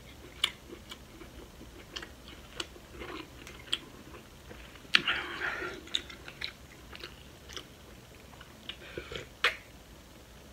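Close-miked chewing and mouth sounds: scattered wet clicks and smacks, with a louder clack and a short stretch of noise about five seconds in.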